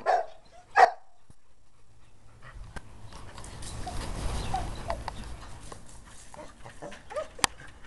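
A dog gives two short barks at the start, then a few seconds of broad hissing noise swell and fade, with a sharp click near the end.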